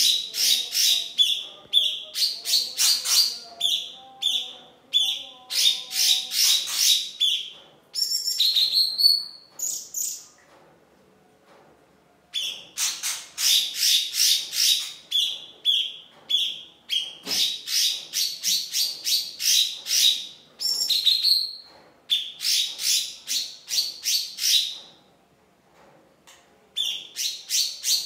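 A songbird singing in long phrases of fast, sharp, high-pitched chattering notes, breaking off briefly twice.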